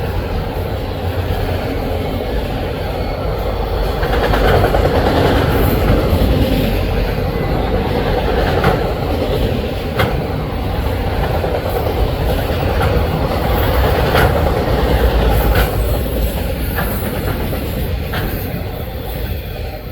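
Canadian National freight train rolling past with a steady rumble, broken by scattered sharp clicks of wheels on the rails. It grows fainter over the last couple of seconds.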